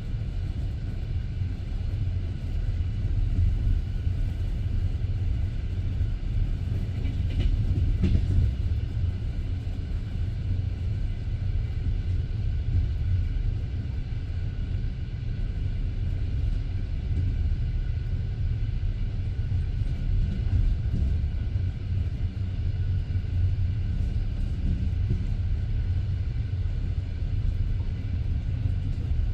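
Passenger train carriage running along the track: a steady low rumble of the wheels on the rails. There is a brief higher-pitched sound about seven seconds in.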